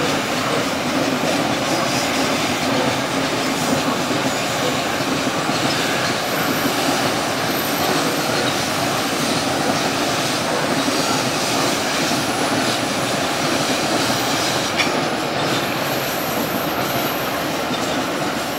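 Long rake of steel coal hopper wagons rolling past on a curve: a steady noise of wheels on rails, with thin high wheel squeals at times.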